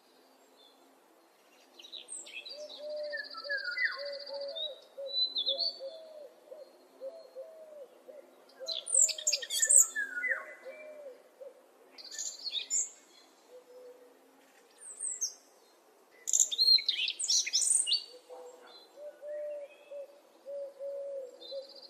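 Birds singing: several birds give high, quick song phrases in bursts, over long runs of low, quickly repeated hooting notes.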